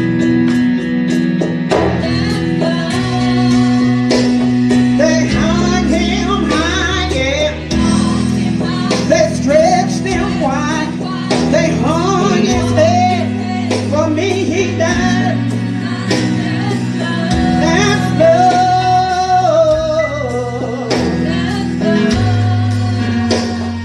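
Gospel worship music: a live band plays while singers sing a melody over sustained keyboard chords and a steady bass line.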